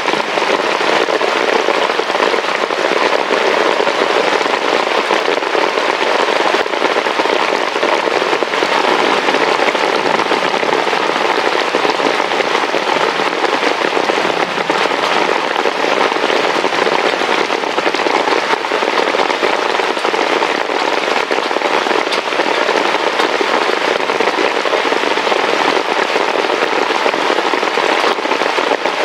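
Heavy rain falling, a steady, loud, dense patter of drops that does not let up.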